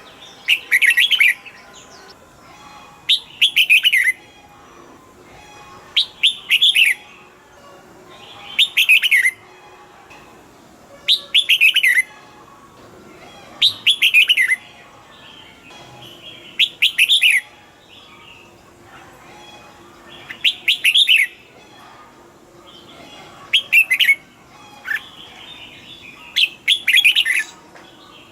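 Red-whiskered bulbul singing short, clear, falling phrases about a second long, repeated every two to three seconds, about ten in all.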